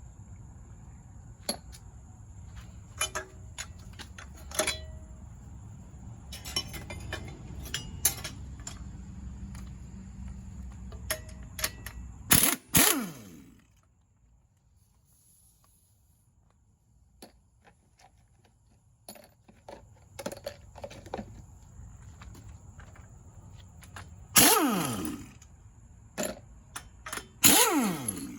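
Impact wrench hammering out tight exhaust manifold bolts in three short bursts of about a second each: one about halfway through and two near the end. Metal clicks and clanks of tools on the engine come between the bursts, over a low hum in the first half.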